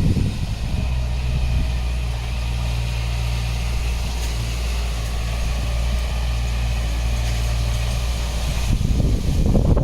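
Heavy diesel engine of construction machinery running steadily with a low, even drone, rougher and louder for a moment just at the start and again near the end.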